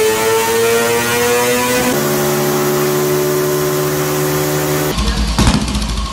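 Motorcycle engines run on a rolling-road dyno, one after another. First a Yamaha sport bike's engine revs up with a rising pitch. About two seconds in, a small step-through motorcycle's engine takes over and holds a steady speed. Near the end a vintage motorcycle's engine runs with a deeper, rougher note.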